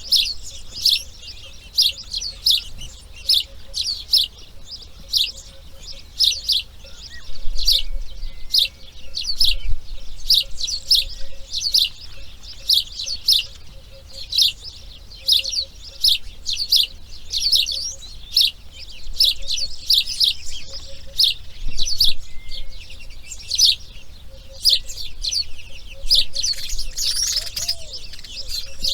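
A bird chirping over and over, short sharp high chirps at about two a second, keeping up a steady pace throughout.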